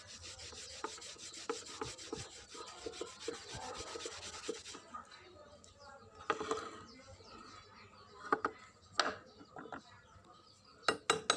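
Hand scraping of an object under restoration: quick abrasive strokes for about the first five seconds, then scattered light knocks and a few sharp clinks near the end.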